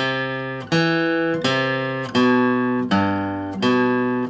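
Acoustic guitar picking a slow single-note melody: six plucked notes about 0.7 s apart, each left ringing until the next.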